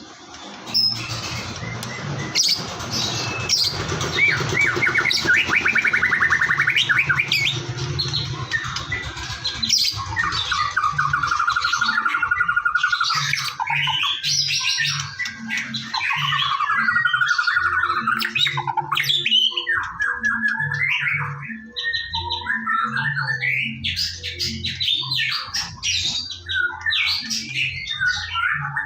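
White-rumped shama singing a loud, varied song of rich whistles, fast trills and harsh squawking notes.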